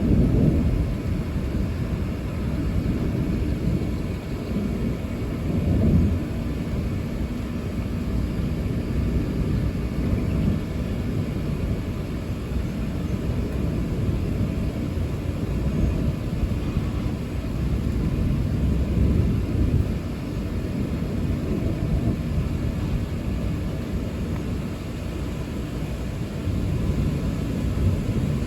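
Thunder rolling in a low, continuous rumble from a severe thunderstorm, swelling louder a few times.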